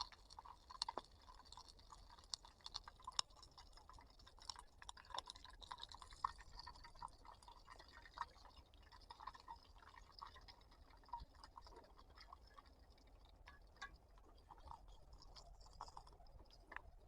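Faint, irregular clicks and crackles over a soft hiss, from candle wax melting in a tin can on a portable camping gas stove.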